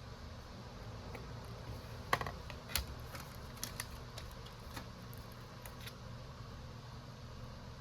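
Scattered light clicks and taps of small hard objects being handled, about a dozen, loudest about two and three seconds in, over a steady low hum.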